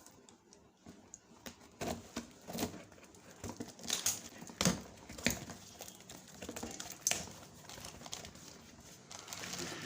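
A packed cardboard box being opened and its contents unwrapped by hand: irregular crinkling and rustling of packing with sharp clicks and knocks, busiest between about two and seven seconds in.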